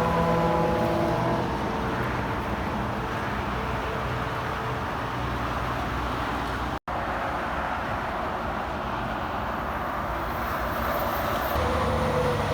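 Highway traffic going by: steady tyre roar with the engine hum of passing trucks, strongest near the start and again near the end. The sound drops out for an instant just past halfway.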